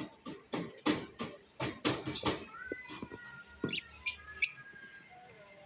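Lovebirds calling: a rapid run of short, shrill, harsh chirps, then a few thinner, steadier whistled notes.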